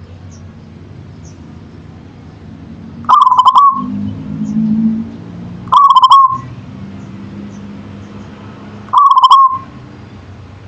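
Zebra dove (perkutut) cooing its song three times, each call a quick stuttering run of notes ending on a short held note, over a faint low background rumble.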